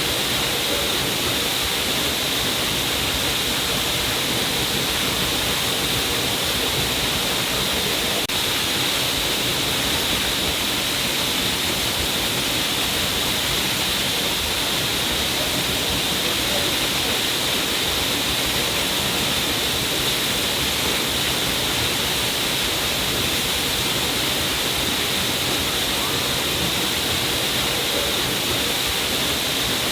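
A stream of water falling down a rock cliff, splashing steadily without a break.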